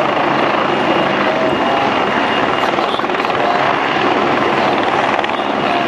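Helicopter running close by, a loud steady rotor and engine noise that does not change.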